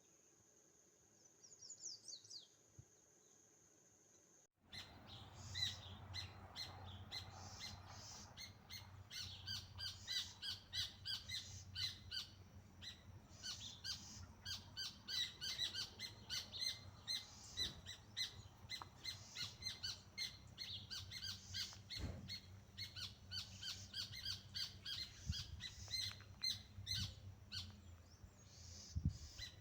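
Birds chirping in a dense run of quick, short, high notes over a low steady rumble. For the first four and a half seconds there is only a faint steady high whine and one brief chirp, then the birdsong starts abruptly.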